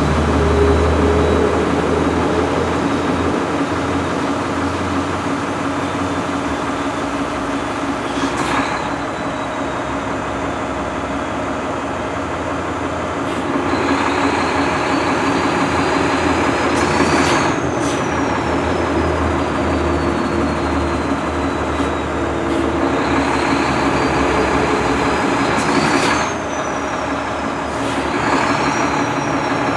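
Mack MP7 inline-six diesel engine of a front-load garbage truck running at a steady idle. A high whine rises and falls several times over it, with stretches of hiss and a few sharp clicks.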